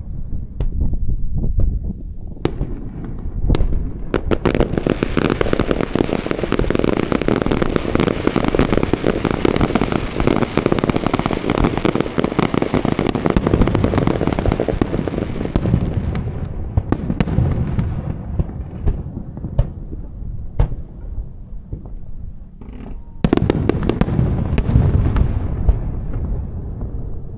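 Aerial fireworks display: a rapid barrage of shell bursts and dense crackling builds a few seconds in, thins out after about the middle, and is followed by a second volley near the end.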